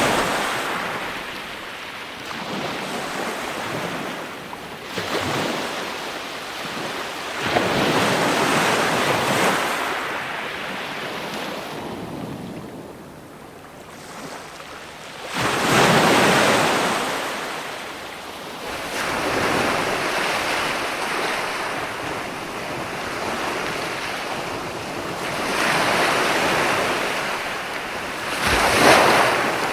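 Ocean waves breaking and washing in surges every several seconds, with a quieter lull between swells.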